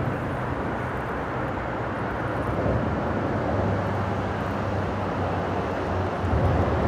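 Steady rumble of freeway traffic on the bridge overhead, blended with the rush of flowing stream water.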